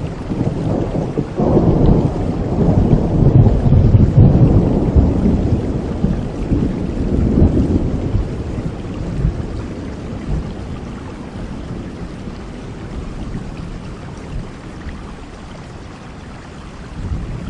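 Rolling thunder over steady rain: a long low rumble swells about a second and a half in, stays strong for several seconds, then slowly fades while the rain goes on.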